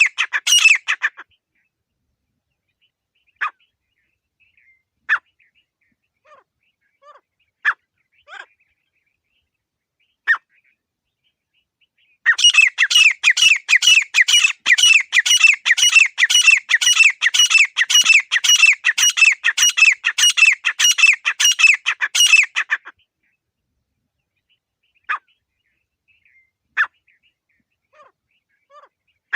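Grey francolin (desi teetar) calling: a loud, fast series of repeated sharp notes at the start, scattered single calls over the next several seconds, then a long run of rapid repeated calls lasting about ten seconds before it breaks off into a few isolated notes.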